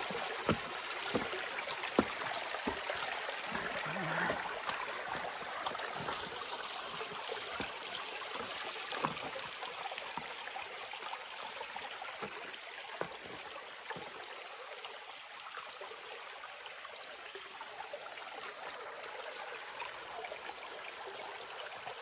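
Small creek running and trickling over rocks, a steady rush of water, with a few sharp clicks in the first few seconds.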